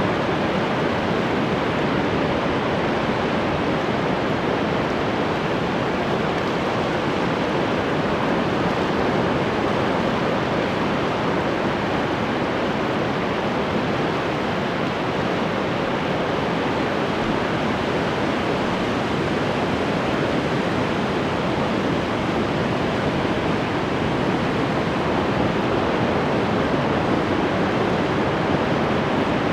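Ocean surf washing continuously on the shore, a steady, even noise with no separate wave crashes standing out.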